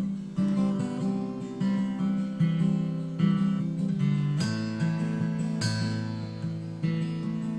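Acoustic guitar strumming chords in a song's instrumental opening, with a new chord struck about every second.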